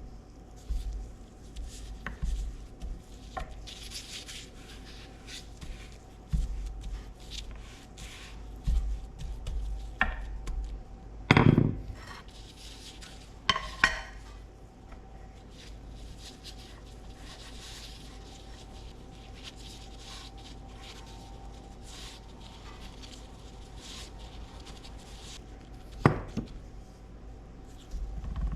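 Kitchenware being handled: scattered knocks and clinks with some rubbing, the loudest knocks about 11 and 14 seconds in and near the end, over a faint steady hum.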